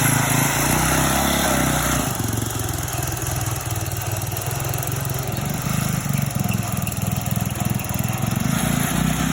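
Small tractor engine running steadily with a rapid pulsing beat. It is louder, with extra rushing noise, for the first two seconds.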